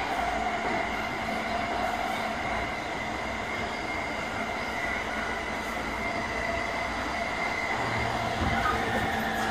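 JR East E217 series electric multiple unit motor car (MoHa E217-31) running along the line: a steady rumble of wheels on rail with a steady high whine over it.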